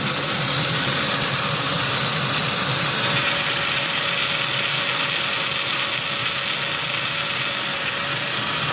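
Saab 9-3 engine idling steadily with no lifter tick, the tick cleared by a bottle of motor flush.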